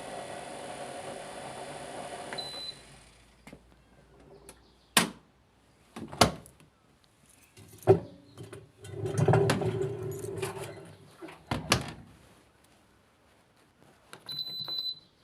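A steady machine hum cuts off about two and a half seconds in with a short high beep. Then come several sharp knocks and a clatter, and a second short high beep near the end, like an automatic washing machine's panel beeping.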